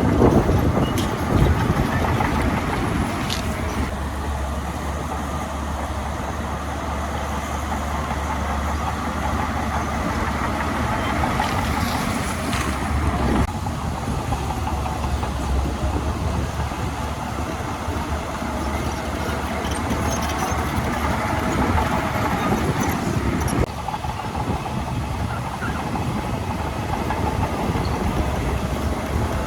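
Heavy diesel earthmoving machinery running steadily, with a few short sharp knocks and squeaks scattered through.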